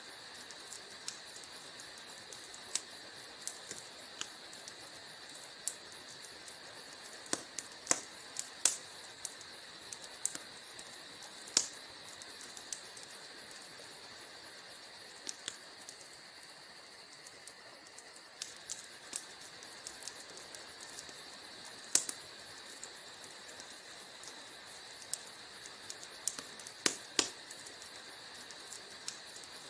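Wood fire burning in a fireplace: irregular sharp crackles and pops over a steady high hiss, with a few louder pops scattered through.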